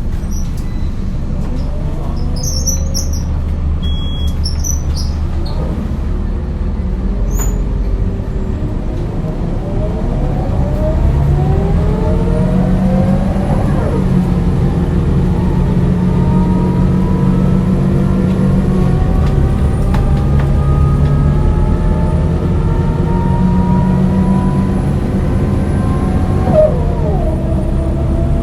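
Scania DC9 9-litre six-cylinder diesel bus engine and ZF automatic gearbox pulling away, with a steady low drone and rising whines that drop abruptly twice, about halfway through and near the end, as the gearbox shifts up.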